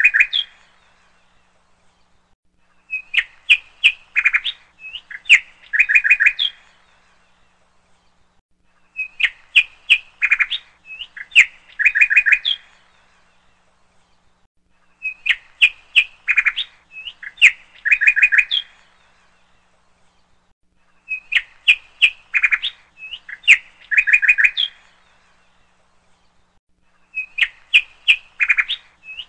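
Birds chirping and trilling in bursts of about three seconds. The same phrase repeats about every six seconds with short quiet gaps between, as in a looped birdsong track.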